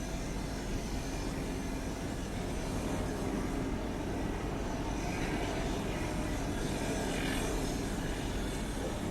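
Viking DHC-6-400 Twin Otter's turboprop engines running, a steady drone with a higher hiss that swells about five seconds in and eases off near the end.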